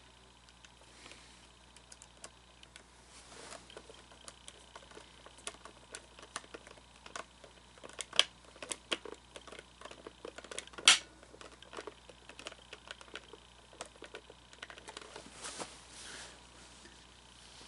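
Scattered small clicks and taps of hard plastic parts and screws being handled during reassembly of an animatronic figure, with a sharper knock about eleven seconds in.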